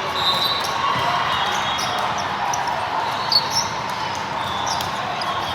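A volleyball bouncing on a gym floor over the steady murmur of a crowd in a large hall, with a sharp knock a little past three seconds in.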